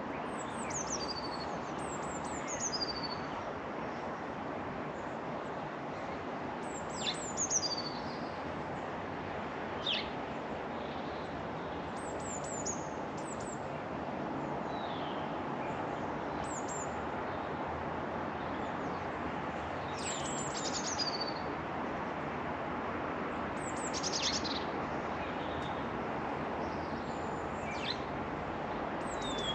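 Small garden birds calling: short, high notes that slide downward, in little clusters every few seconds, over a steady background rush.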